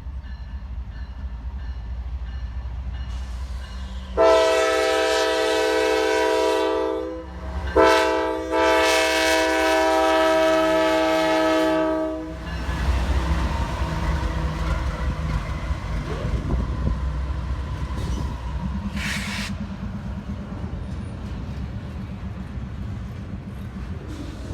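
Diesel locomotive air horn sounding a loud chord in two long blasts with a short gap between, then the train rolling past with steady wheel and rail noise.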